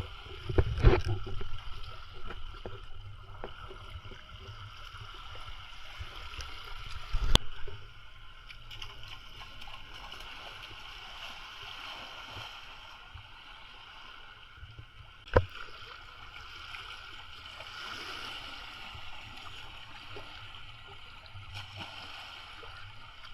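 Water lapping and gurgling, with a few sharp knocks, the clearest about seven and fifteen seconds in.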